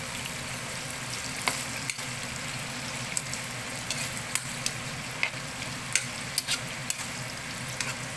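Chicken liver, gizzards and breast meat sizzling in hot oil in a nonstick wok while being stirred with a utensil, a steady frying hiss broken by scattered sharp clicks. A faint steady low hum runs underneath.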